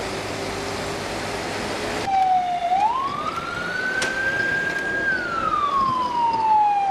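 A siren sounding one slow wail: about two seconds in it starts, rises in pitch, holds high for a couple of seconds, then falls slowly. Before it there is a steady background noise with a faint low hum.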